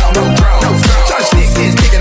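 Progressive house remix of a Chinese pop song, with a four-on-the-floor kick drum at 128 BPM (about two beats a second) under a pulsing bass line and synth layers.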